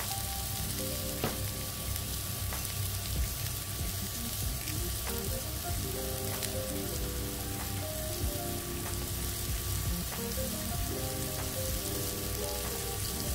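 King oyster mushroom slices sizzling in hot salad oil in a frying pan, a steady hiss with scattered small pops. A melody of background music plays underneath.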